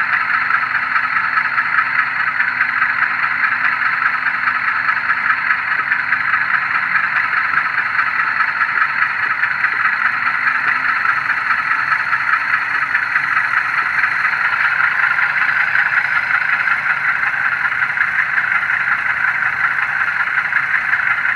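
HO-scale U25B locomotive's LokSound decoder playing a GE diesel engine sound through its small onboard speaker, running steadily at a low notch, with a thin, tinny tone.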